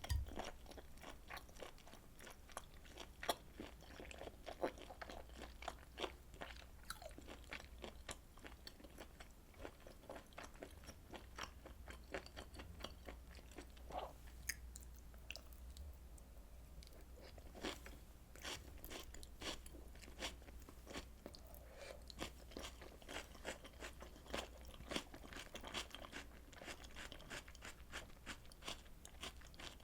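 Close-miked eating sounds: crunchy chewing and wet mouth clicks from grilled beef intestine and tripe, with a brief lull about halfway through.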